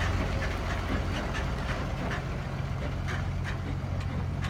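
A diesel engine idling with a steady low hum, and footsteps about two to three a second over it.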